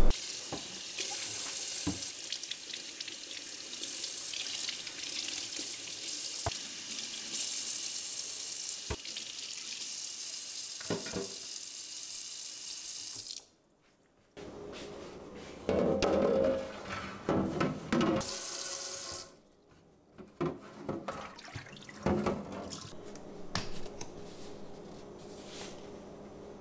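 Kitchen tap running into a sink, a steady hiss with a few light knocks, for about thirteen seconds until it cuts off abruptly. After a moment of silence come irregular louder knocks and handling sounds at the sink.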